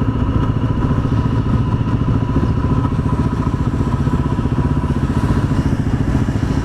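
Yamaha WR250R's single-cylinder engine running steadily while riding at a constant cruise, with no change in revs, over a continuous rush of road noise.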